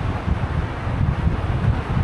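Wind buffeting the microphone of a camera carried on a moving bicycle: a gusty low rumble over a steady rushing hiss.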